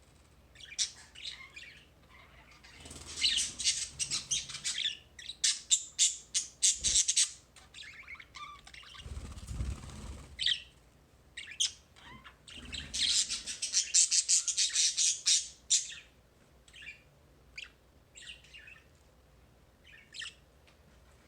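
A bird singing and chirping, with two long runs of rapid high-pitched chirps and scattered single calls between and after them.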